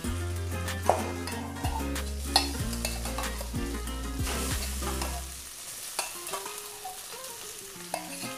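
Boiled potato pieces dropping into hot mustard oil in a metal kadai and sizzling as they start to fry, with a few sharp knocks of a spoon against the pan. A low hum cuts off about five and a half seconds in.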